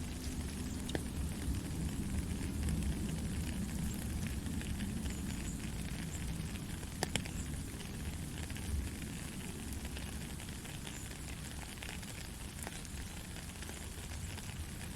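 Soft rain falling steadily, a fine even patter of drops with one sharper tick about seven seconds in.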